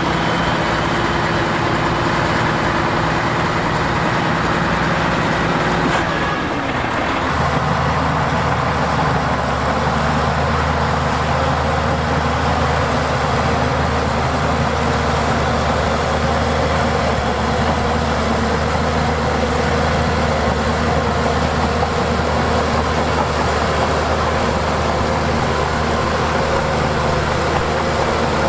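Heavy diesel engine of earthmoving equipment running steadily. About six seconds in the engine note changes, then it holds a lower, deeper pitch.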